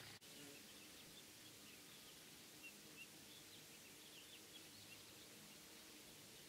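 Near silence: faint outdoor air with a few faint, short, high chirps of distant birds.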